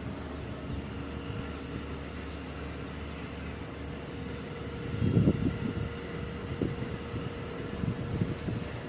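Passenger train in motion, heard from on board: a steady low rumble with a hum, swelling into louder rumbling surges about five seconds in and twice more near the end.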